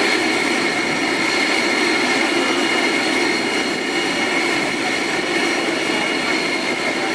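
Boeing 747-400 freighter's jet engines running steadily: a constant rushing noise with a high, even whine.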